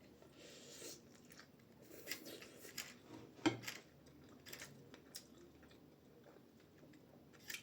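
Faint chewing and mouth sounds of someone eating steamed dumplings (momos): soft scattered clicks and smacks, with one sharper, louder click about three and a half seconds in.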